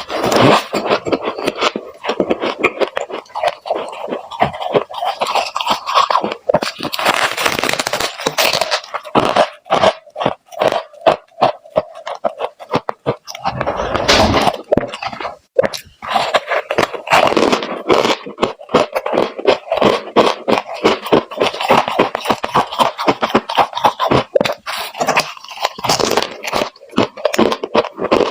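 Freezer frost being chewed close to the microphone: dense, rapid crunching with a few brief pauses.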